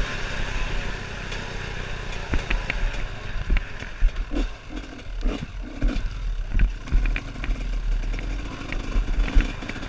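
Trail motorcycle engine running unevenly at low revs, with scattered knocks and rattles.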